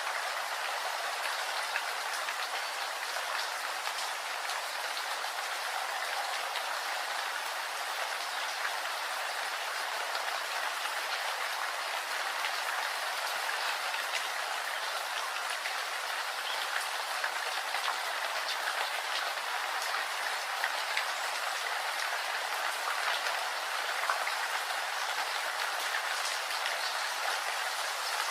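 Steady rain falling: an even hiss of rain with scattered small drop ticks.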